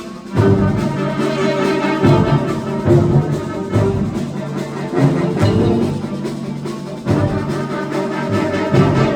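School concert band playing, with brass chords over percussion and sharp accented hits every second or two.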